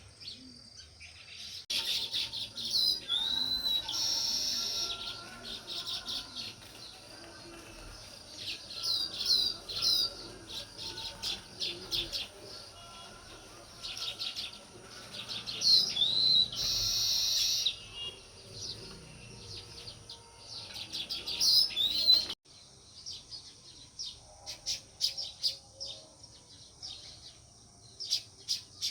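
House sparrows chirping: many short, high chirps in quick clusters, with two brief rushes of noise among them. About three quarters of the way through the sound changes abruptly, and the chirping carries on fainter.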